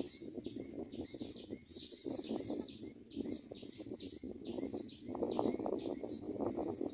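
Common mynas at the nest: many short, high chirps repeated in quick succession, with fluttering of wings.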